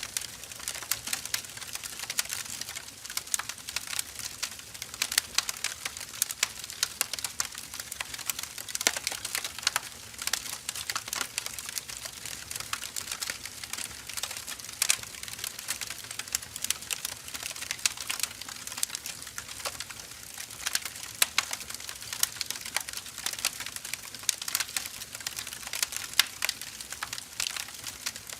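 Firewood burning: dense, irregular crackles and pops, several a second, over a faint hiss from the fire.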